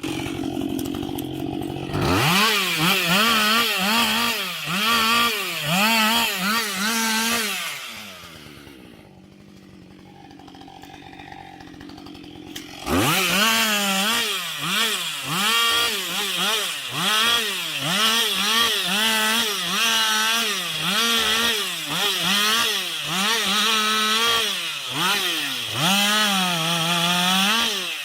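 Husqvarna 560 XP two-stroke chainsaw cutting through a log, its engine pitch rising and falling as it bogs under load and recovers. About eight seconds in it drops off to a low level for a few seconds, then opens up again and cuts steadily to the end.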